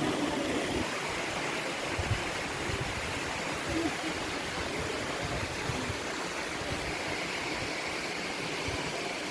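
Waterfall rushing, a steady wash of falling water.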